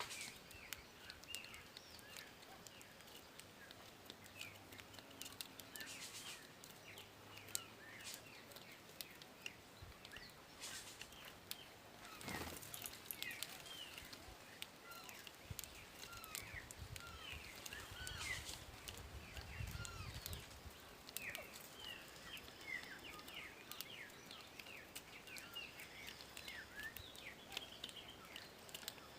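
Small birds chirping faintly: many short, quick calls keep coming throughout, over a background of scattered clicks. A low rumble rises for a few seconds past the middle.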